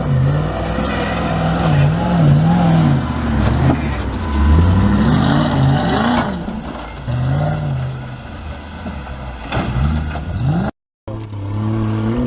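Off-road 4x4 engine revving up and down again and again as it is worked over the course. The sound cuts out briefly about eleven seconds in, then comes back as a steadier engine note.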